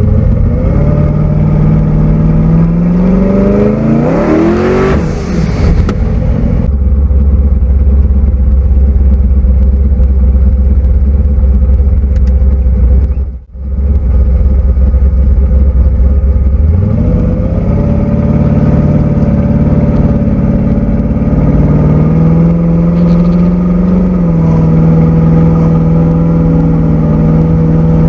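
Twin-turbo big-block Chevy V8 driving a car on the road. Revs climb for the first few seconds, then a heavy low steady drone follows. After a brief break about halfway, the revs rise again and hold steady at cruising speed.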